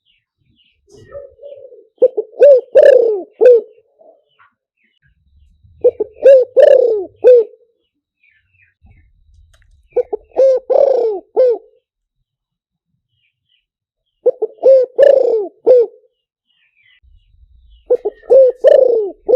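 Spotted dove cooing: a phrase of several low hooting coos, repeated about every four seconds, five times. Faint chirps of other small birds sound between the phrases.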